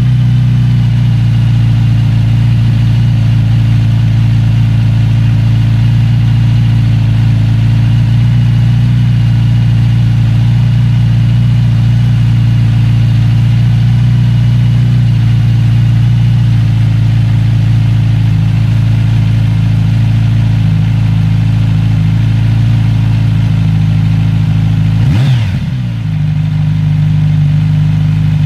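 Kawasaki Z900RS inline-four engine idling steadily on its stock exhaust during a cold-start warm-up. About 25 seconds in, the engine note briefly dips and recovers.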